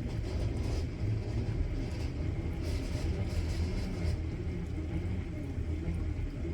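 Old Ford tractor engine running steadily, a low engine note with no change in speed.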